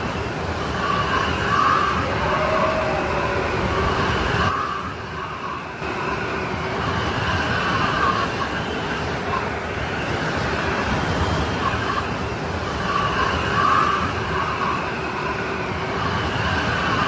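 Strong snowstorm wind blowing in a steady rushing noise, with whistling tones that swell and fade. It eases briefly about four and a half seconds in, then picks up again.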